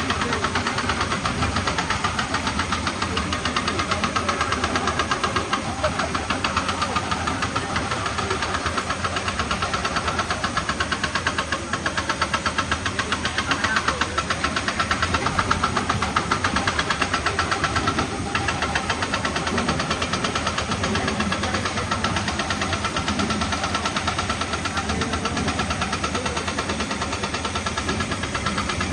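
Diesel engine of heavy quarry equipment running steadily under load, with a rapid, even pulse.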